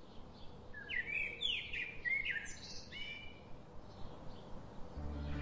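Birds singing: a run of short rising and falling chirped phrases over a steady faint outdoor hiss. Music begins near the end.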